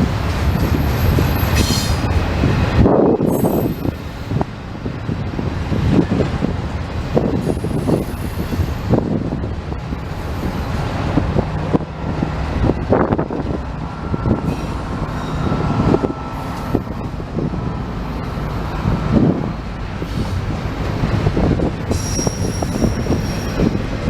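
Intermodal freight cars rolling past on the rails: a steady rumble with irregular wheel knocks and clanks, and brief high-pitched wheel squeals now and then.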